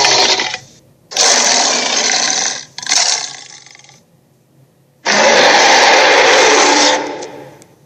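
Dragon roar sound effects: a string of loud, harsh roars with short pauses between them. One roar dies away at the start, two follow close together about a second in, and the longest comes about five seconds in, then fades out.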